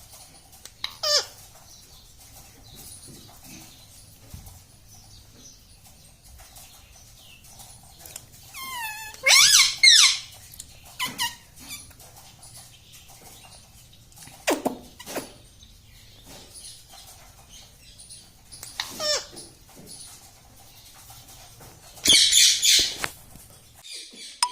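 Pet ringneck parrot giving a series of shrill squawks and squeaky calls, some sweeping down in pitch, in separate bursts with pauses between; the loudest come about nine seconds in and again near the end.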